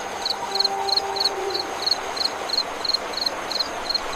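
Cricket chirping steadily, short pulsed chirps about three times a second, over a steady hiss of night ambience.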